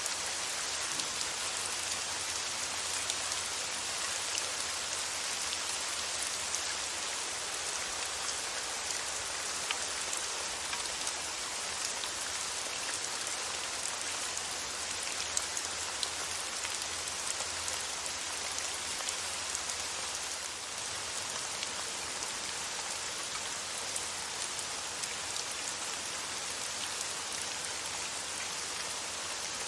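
Steady rain falling, a dense even hiss with fine patter of individual drops hitting a surface.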